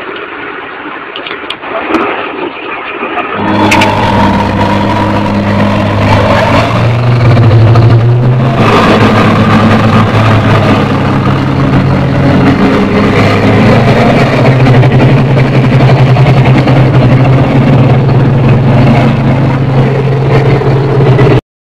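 Truck engine running loud and steady under load. It comes in strongly about three and a half seconds in, with a brief dip and change in pitch around eight seconds in.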